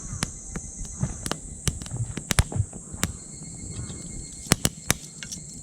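Wood fire in a titanium wood stove crackling, with irregular sharp pops several times a second, a few louder ones near the end. A steady high insect drone runs underneath.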